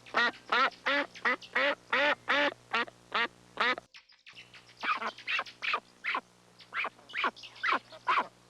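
A bird calling in a rapid series of short calls, about three a second, with a brief break about four seconds in.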